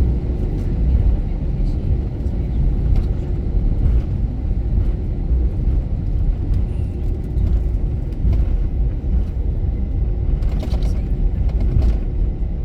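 Steady low rumble of airliner cabin noise inside a Vueling Airbus A320-family jet, with a faint constant hum and a few light rattles near the end.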